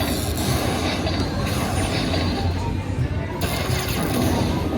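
Video slot machine music and sound effects playing during a bonus round.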